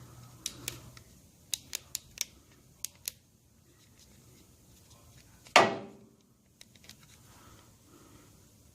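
A run of sharp little clicks in the first three seconds, then one loud knock about five and a half seconds in that rings briefly, from handling something metal or plastic.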